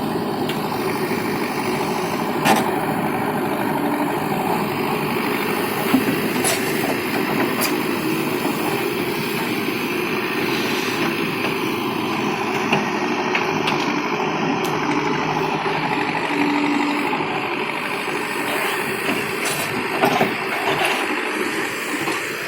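Sonalika tractor's diesel engine running steadily, with a few sharp knocks rising briefly above it.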